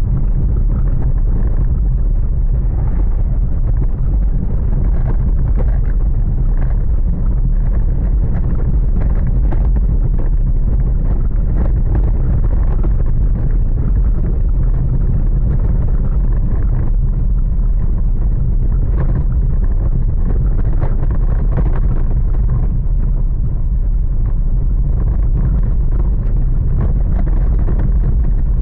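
Thunderstorm wind buffeting the microphone: a loud, steady low rumble with a dense crackle running through it.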